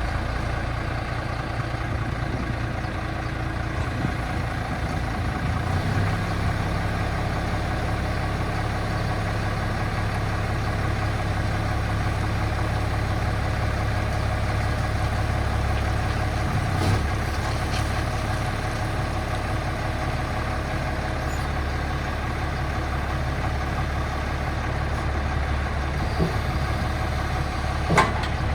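1993 International 4900 dump truck's diesel engine idling steadily just after being started, its note shifting about six seconds in. A couple of short knocks stand out, one midway and one near the end.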